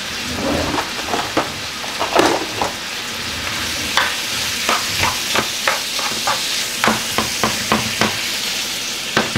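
Diced raw chicken sizzling in oil in a nonstick frying pan. From about four seconds in, a spatula stirs and turns the pieces, knocking against the pan in a run of sharp clicks, two or three a second.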